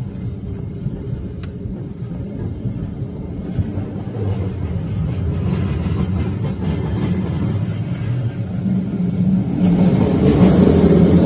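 Car-carrying shuttle train rolling along, heard from inside a car loaded on its covered wagon: a steady rumble of wheels on the rails. It grows markedly louder about ten seconds in as the train enters the tunnel.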